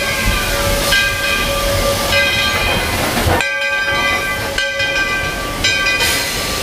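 Walt Disney World Railroad steam train running, heard from a passenger car: a steady rumble with a cluster of high ringing tones that fades in and out about once a second.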